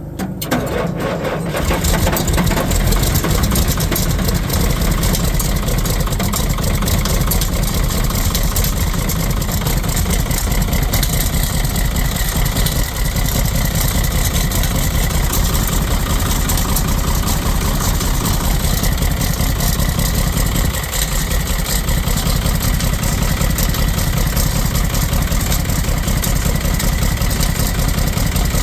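John Deere diesel engine catching on a cold start in sub-zero weather, then running steadily at a loud, rapid idle.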